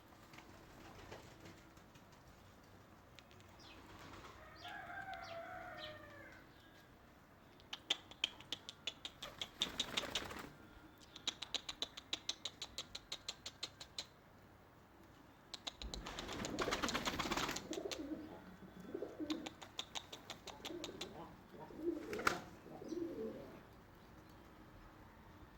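Birds flapping their wings in repeated bursts of rapid strokes, with short bird calls in between. The densest burst of flapping comes just past the middle.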